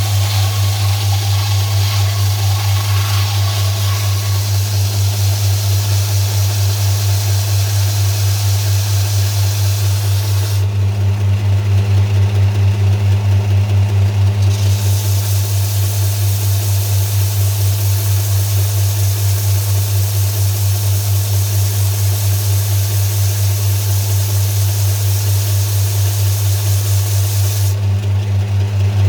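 Kraton WMS-350-150 electric grinding machine running steadily, its motor giving a strong, even hum. A hiss over the hum drops away for about four seconds from about eleven seconds in, and again near the end.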